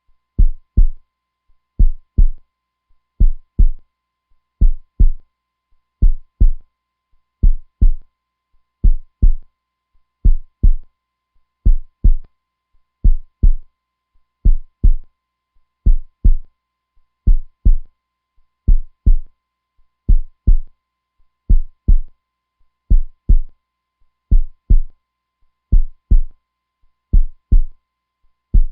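Heartbeat: a steady run of low double thumps (lub-dub), one pair about every second and a half.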